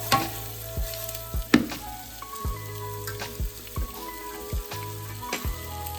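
Fish fillets sizzling in butter sauce in a frying pan, under background music with a steady beat.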